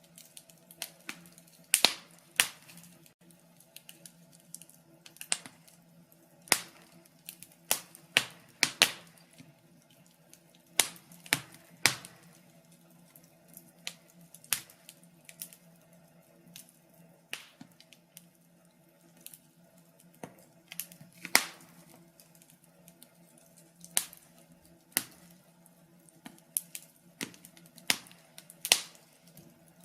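Wood fire in a fireplace crackling: irregular sharp pops and snaps, a few a second, some much louder than others, over a faint steady low hum.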